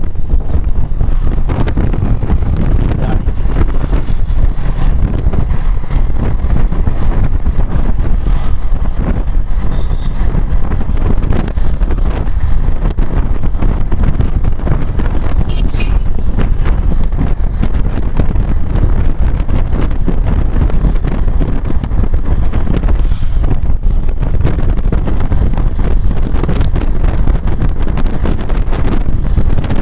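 Loud, steady wind buffeting the microphone of a rider on a moving motorcycle, with vehicle noise underneath.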